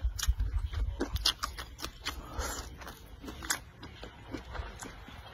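Close-up mouth sounds of a person biting into and chewing a crisp green vegetable stalk: irregular wet crunches and clicks, with a low rumble during the first second or so.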